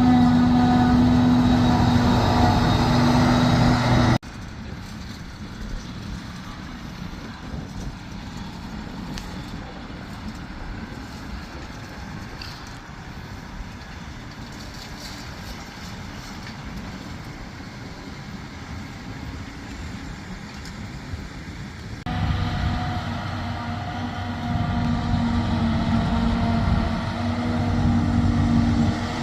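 Diesel engines of large farm machinery running steadily. The sound is loud and close at first, drops suddenly to a quieter, more distant machine sound about four seconds in, and turns loud and close again about two-thirds of the way through.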